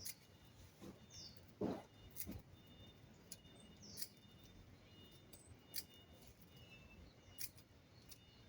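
Quiet background with scattered faint clicks and taps, the loudest about two seconds in, and two brief high chirps.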